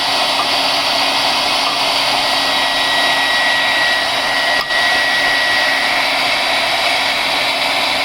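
Handheld hair dryer blowing steadily on high, a rushing air noise with a thin high whine, briefly dipping about halfway through.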